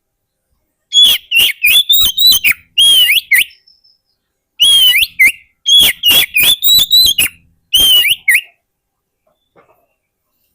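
Oriental magpie-robin (kacer) singing: loud, rapid whistled and chattering phrases in two bursts about a second apart.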